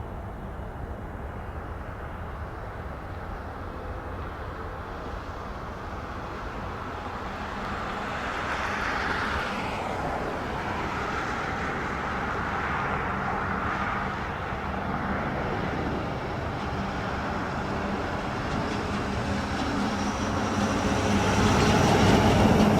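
Jet engine noise from a landing Boeing 777-200LR's GE90 turbofans: a steady rumble that swells midway, then grows louder toward the end as a high whine comes in.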